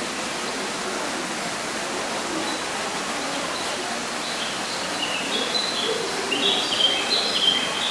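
Steady rushing background noise, with a bird chirping in quick, short, high notes from about halfway through, loudest near the end. Faint murmur of voices underneath.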